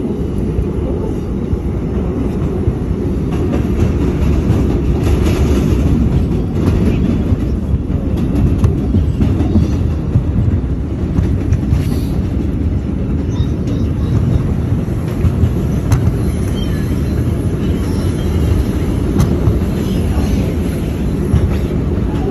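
R142 subway car running between stations, heard from inside the car: a steady, loud rumble of wheels on the rails with occasional clicks. It gets a little louder over the first few seconds as the train picks up speed.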